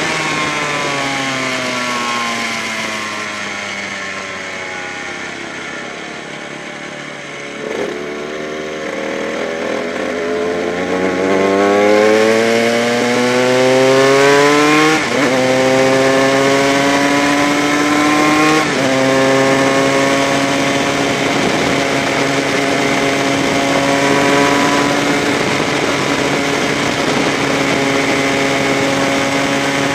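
Honda RS125's single-cylinder two-stroke engine heard onboard at racing speed. The revs fall away for several seconds, then climb hard, drop sharply twice as it shifts up, and settle at steady high revs.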